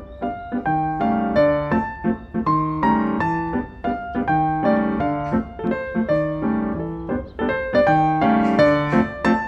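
Background piano music: a steady flowing accompaniment of repeated notes, with a low note pattern recurring about every second and a half.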